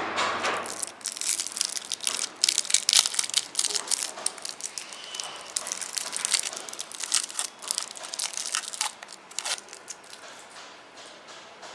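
Candy packaging crinkling and crackling as it is handled and unwrapped. There is a dense run of sharp crackles that thins out near the end.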